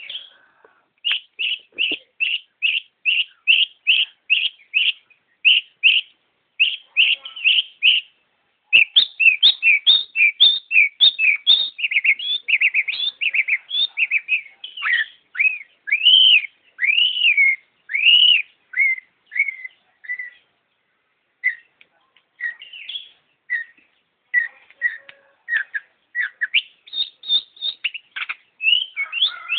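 Long-tailed shrike (pentet) singing vigorously: a run of short, sharp notes about two a second, then a faster, varied string of rising and falling whistled notes. It thins to scattered calls and ends in a quick trill.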